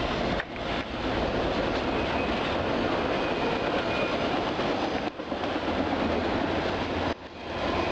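Freight train cars rolling past on the rails, a steady rumble and rattle. The noise drops out briefly and suddenly three times.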